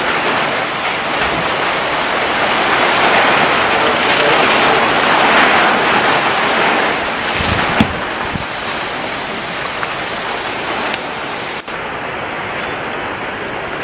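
Heavy rain falling in a steady, even hiss, with a single sharp knock about eight seconds in.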